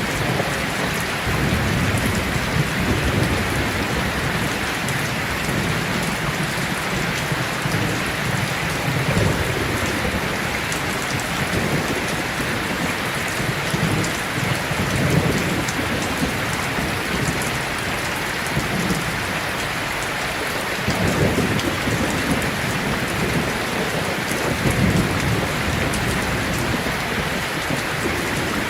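Heavy rain falling steadily, with low rolling thunder rumbling through the first half, easing off for a few seconds, then rolling in again about two-thirds of the way through.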